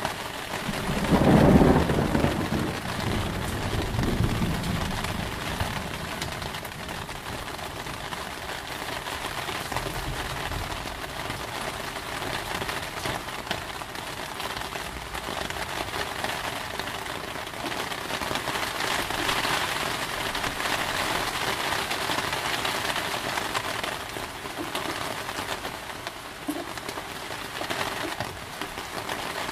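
Steady rain with a loud thunderclap about a second in, rumbling away over the next few seconds.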